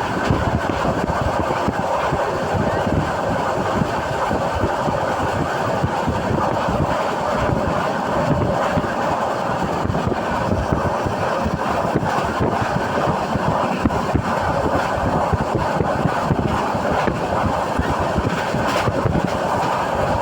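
Passenger train running along the track, heard from inside a moving carriage: a steady rumble and rattle of wheels and coach.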